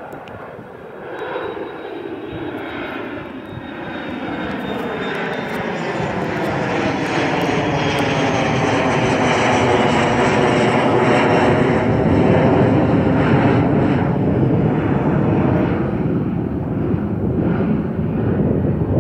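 Jet airliner departing past the microphone: its engine noise swells over about ten seconds and then holds loud, with a slowly sweeping, phasing change in tone as it goes by and a faint high whine early on.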